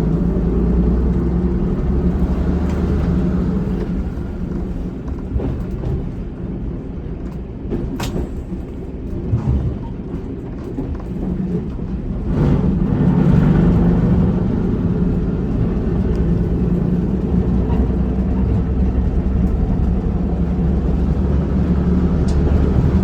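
Single-car diesel railcar's engine working under power as the railcar pulls away and is taken through its mechanical gears. The engine note drops back through the middle and rises again about halfway. A sharp click comes about eight seconds in.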